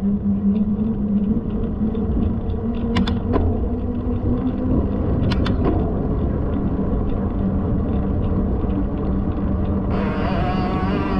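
Steady low rumble with light, rapid ticking and rattling over it; two sharper clicks about three and five seconds in, and a brief hiss near the end.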